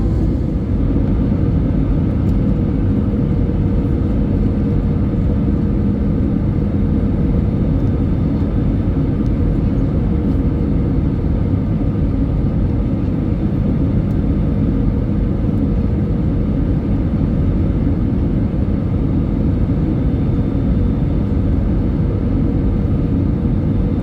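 Airbus A320 cabin noise on the landing approach: a steady rumble of the engines and airflow past the fuselage, with a constant low hum running through it.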